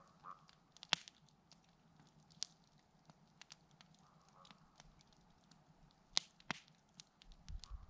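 Wood campfire crackling, with scattered sharp pops; the loudest come about a second in and twice a little after six seconds in. A low rumble comes in near the end.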